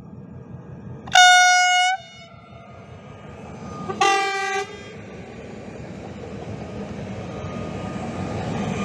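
22WEd (Pesa Elf 2) electric multiple unit sounding its horn twice, a long blast about a second in and a shorter one about four seconds in. Then the train passes close by with a rising rumble of wheels on the rails.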